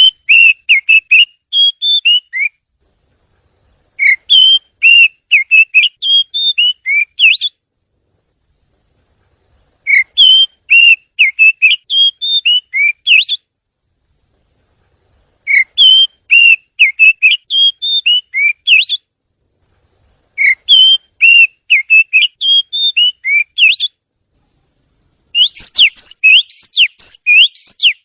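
Oriental magpie-robin singing: phrases of loud, quick whistled notes, each three to four seconds long, with short silent gaps between them. The last phrase, near the end, is a faster, denser run of rising notes.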